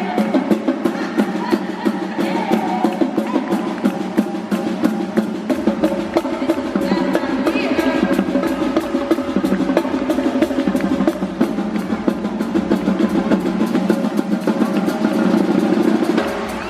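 Drumming over a backing music track: a fast, even run of snare and bass-drum hits with drum rolls.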